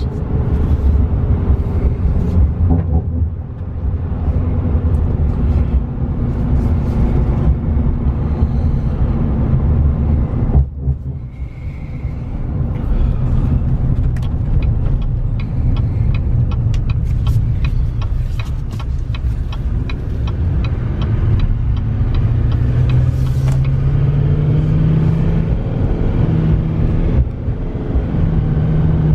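Cabin noise of a 2015 GMC Sierra 3500HD Denali pickup on the road: a steady engine and tyre rumble, with the engine note rising as the truck picks up speed in the last few seconds.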